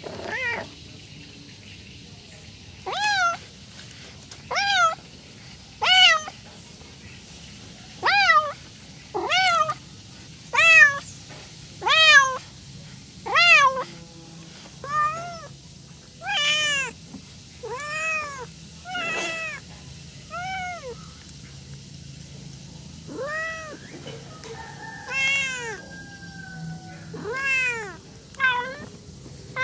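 Domestic cat meowing over and over, about twenty meows in a row, each rising then falling in pitch. This is a cat begging for food.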